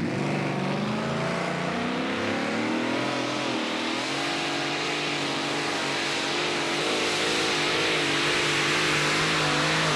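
Competition pulling tractor's engine running hard and continuously during a pull, its pitch wavering up and down and rising somewhat after about four seconds.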